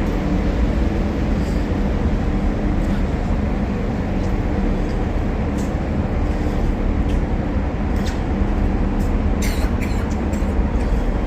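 Steady low drone of a ferry's engines heard from aboard, with a few short sharp clicks near the end.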